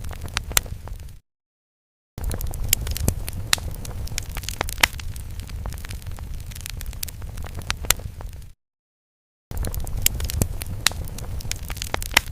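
Crackling fire sound effect: a steady low rumble with frequent sharp pops and snaps. It cuts out to complete silence for about a second twice, about a second in and again about two-thirds of the way through, then resumes.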